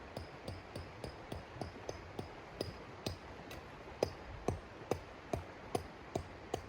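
A regular series of short, light taps or clicks, about three a second, louder and a little slower from about four seconds in, over a steady hiss.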